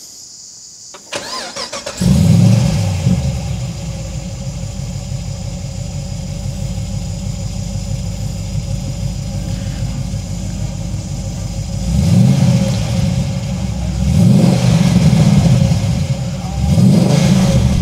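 HSV VF Senator's cammed 6.2-litre LS3 V8 cranking briefly and firing with a loud flare about two seconds in, then idling through its 2¾-inch exhaust. In the second half it is revved three times, each rev rising and falling in pitch.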